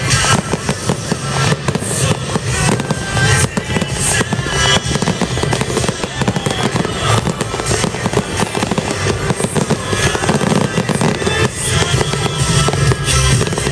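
Aerial fireworks bursting and crackling overhead in a dense, continuous run of sharp cracks, with music playing underneath.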